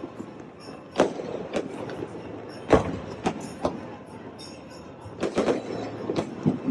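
Fireworks going off: a series of sharp bangs at irregular intervals, the loudest about a second in and just before three seconds, with a cluster of bangs near the end and crackling between them.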